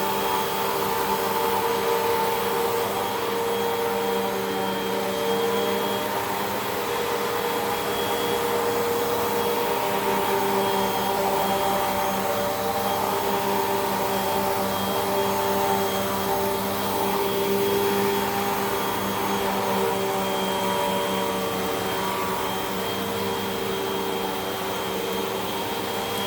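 Hoover WindTunnel 2 Rewind upright vacuum cleaner running steadily while vacuuming carpet, a constant motor whine with several tones that drift slightly in pitch.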